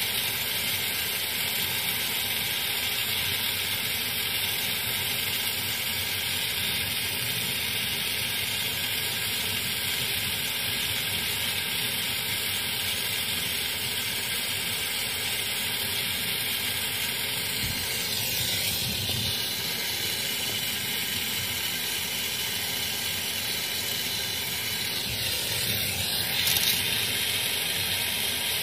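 Steady hiss of a gas brazing torch flame while copper refrigerant tubing on a refrigerator is soldered, with two brief shifts in its tone partway through.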